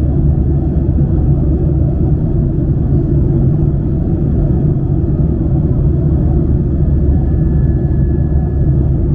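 Steady low rumble of a Boeing 737-900ER's CFM56 engines and airflow, heard inside the passenger cabin. A faint thin whine joins about seven seconds in.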